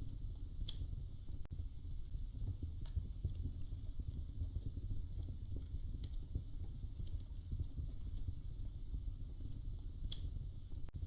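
Wood fire crackling in a fireplace: a steady low rumble of burning with dense small crackles and a few sharp, irregular pops, the clearest about a second in and near the end.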